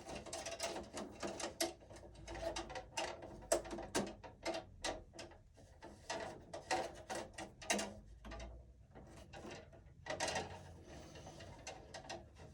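Irregular run of small metallic clicks and taps, a few a second, from hand tools and copper wire being worked inside a metal breaker panel, with a short lull shortly before the end.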